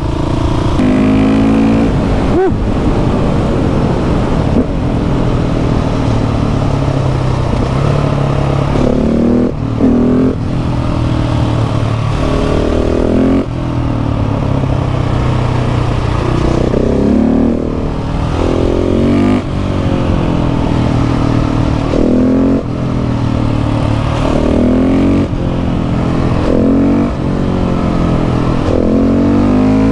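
KTM 690 SMC R single-cylinder engine through a Leo Vince exhaust, under way, its revs climbing and dropping over and over as the rider accelerates and shifts.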